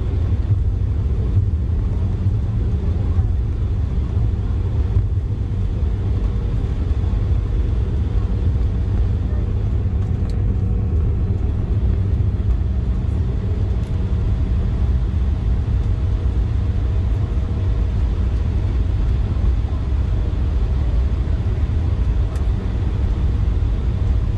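Steady low rumble of engine and airflow noise inside the cabin of an Embraer E175 airliner with GE CF34-8E turbofans, with a few faint steady hums above it.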